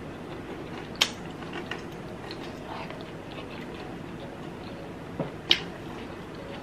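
A person chewing and eating, with soft small mouth sounds throughout and two sharp clicks, one about a second in and another near the end.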